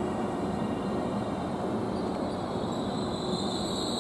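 A passenger train running along the track: a steady rumble with a faint held hum, and a high thin squeal coming in near the end.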